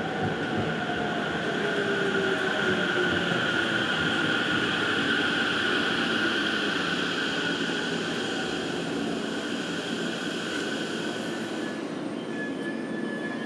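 Electric commuter train running along the station platform, a steady rush of wheel and running noise with a faint motor whine that falls slowly in pitch as the train slows. A thin high squeal comes in near the end.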